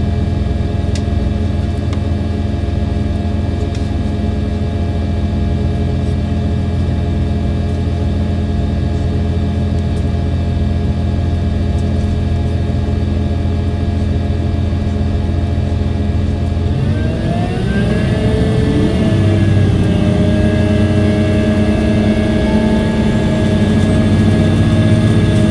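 KiHa 283 series diesel railcar's engine running steadily under load. About two-thirds of the way through, its note shifts and rises to a higher, slightly louder pitch as the engine speeds up.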